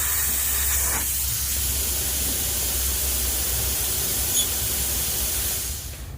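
A steady spraying hiss from a pressurized nozzle that cuts off suddenly near the end.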